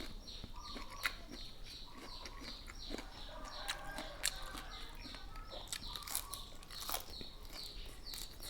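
A person chewing and crunching food, with a few sharp crunches, while a bird chirps over and over in the background, a short falling chirp about three times a second.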